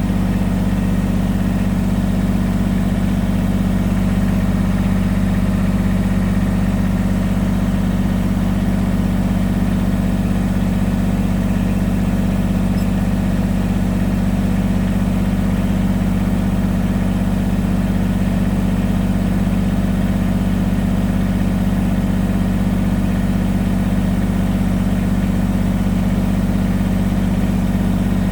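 Kubota BX23S subcompact tractor's three-cylinder diesel engine running steadily at an even speed.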